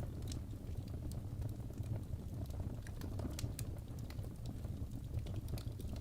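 Wood fire burning in a fireplace: irregular sharp crackles and pops from the burning logs over a low, steady rumble of the flames.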